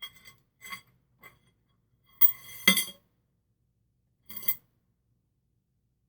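Metal fork parts clinking as a damper rod with its spring is dropped into a Yamaha Virago fork tube: a few light ringing clinks, a louder rattling clatter a little before halfway, and one more clink about three-quarters through.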